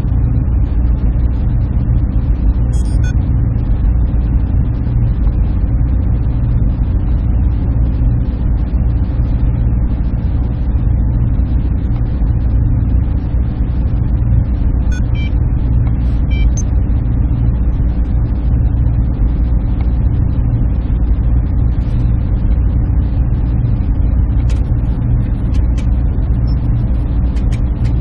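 Server room ambience: the steady, low hum and whir of the machines and their cooling, unchanging throughout, with a few faint ticks near the middle and end.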